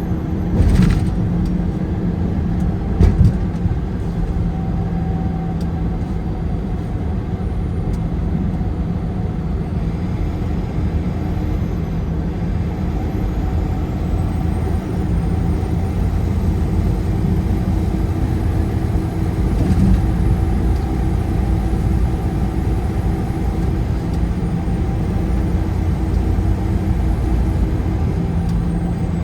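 Car driving at highway speed: a steady low rumble of engine and tyres on the road, with a couple of brief knocks about one and three seconds in.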